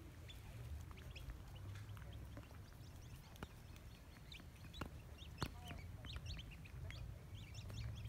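Faint scattered bird chirps and short calls, many quick high notes, over a steady low rumble. A few sharp clicks stand out, the loudest about halfway through.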